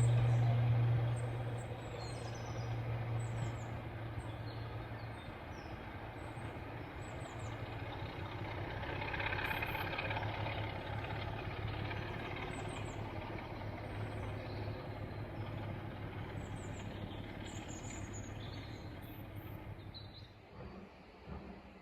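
Diesel locomotive engine running with a steady low hum that is loudest at first and slowly fades away, as the locomotive draws off. Birds chirp faintly throughout.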